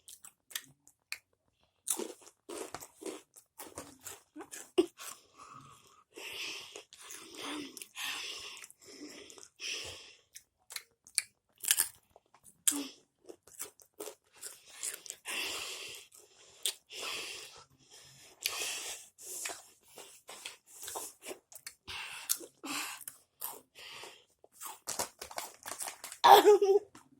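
Close-up crunching and chewing of Takis rolled tortilla chips, a dense run of irregular crisp crunches. Near the end a brief loud vocal sound breaks in.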